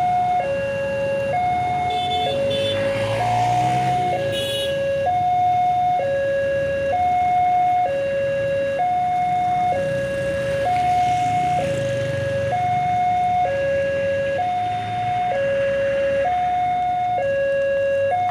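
Railway level-crossing warning alarm: an electronic two-tone signal alternating high and low, each tone lasting about a second, sounding steadily to warn that a train is coming and the barrier is closing. A low engine rumble of waiting traffic runs underneath.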